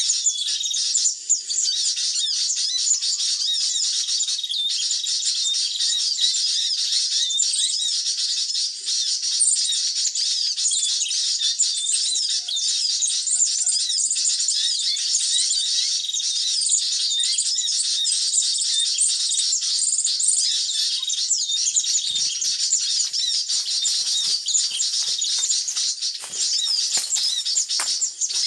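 Dense, unbroken high-pitched chirping and twittering of many small birds, the busy call used to lure sunbirds and tailorbirds in. Over the last few seconds, rustling and soft knocks join in.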